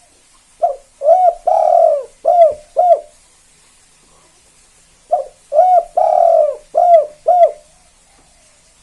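Spotted dove (tekukur) cooing two song phrases about four seconds apart. Each phrase has five notes: a short opening note, a coo, a longer middle coo, then two short closing 'kuk' notes, the two-note ending that marks the 'kuk 2' song type.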